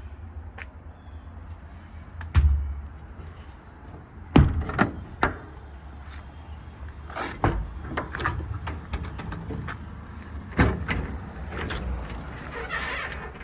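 Metal compartment door on a service truck body being unlatched and opened, a series of sharp clanks and knocks, over a steady low rumble.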